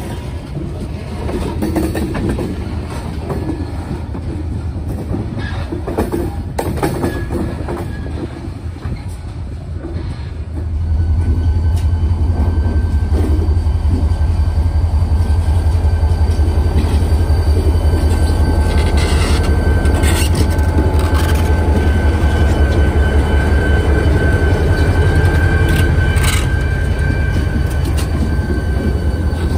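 Freight train rolling along the track, with scattered sharp clicks. About ten seconds in it grows louder and turns into a steady heavy rumble with a thin steady high tone over it.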